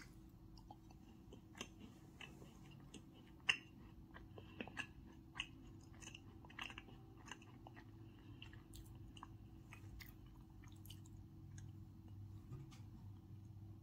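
A person chewing a crumbly strawberry snowball cookie, close to the microphone: faint soft crunches and mouth clicks, with one louder crunch about three and a half seconds in.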